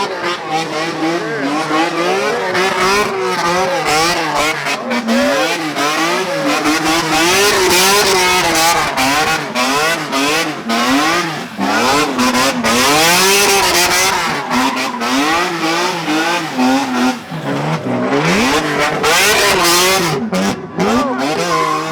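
Car engine revving hard and repeatedly, its pitch rising and falling about once a second, with a hissing high rush strongest through the middle.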